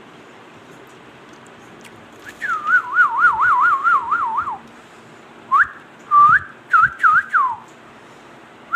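A parrot whistling: a warbling whistle that wavers quickly up and down for about two seconds, then a string of short, separate whistled notes, several sweeping up sharply.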